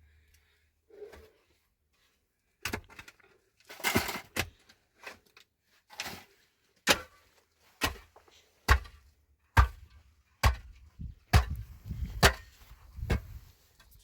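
A run of sharp strikes, about one a second, each with a dull thud, after a few scattered knocks and rustling.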